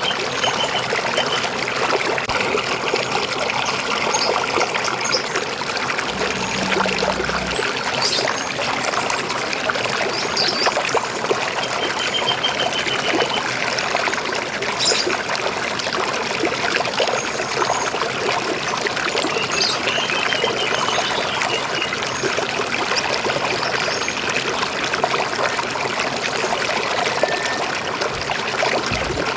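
River water flowing and gurgling steadily, with birds chirping now and then over it, including a few quick trills.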